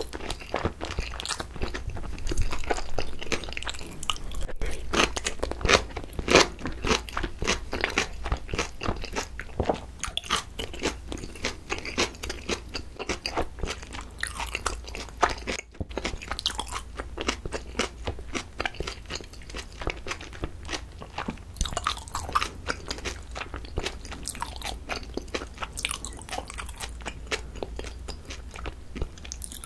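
Close-miked chewing of a mouthful of food: a continuous run of short, crisp chewing clicks and wet mouth sounds.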